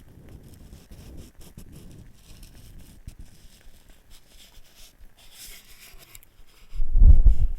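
Close-miked handling and scraping of wooden items, soft and scratchy, with a brief hiss about five and a half seconds in and a loud low rumble near the end.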